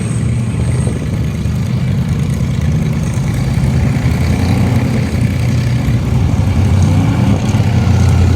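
Off-road vehicle engine running steadily at low revs, growing a little louder near the end.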